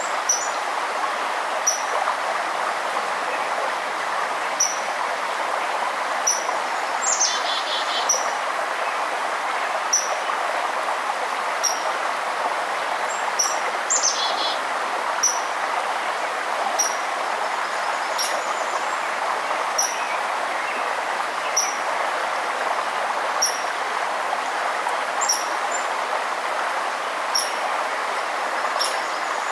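Steady rush of flowing river water, with a small bird repeating a short high chirp a little more than once a second. Twice a quick falling trill from another bird cuts in.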